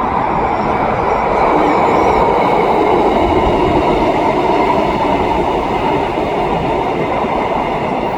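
Four-car REM electric light-metro train running along the elevated guideway overhead: a steady, loud rumble of wheels and motors, a little louder about two seconds in.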